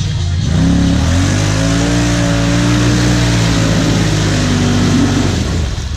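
Off-road vehicle engine revving up hard about half a second in, held at high revs for several seconds, then dropping off near the end.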